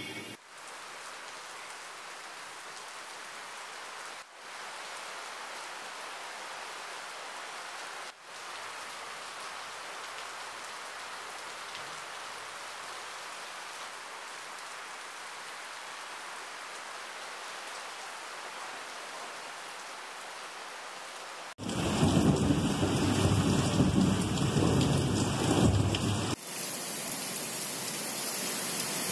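Heavy rain falling steadily as an even hiss of drops on pavement and rooftops. Near the end comes a louder, deeper stretch of about five seconds with a low rumble under the rain.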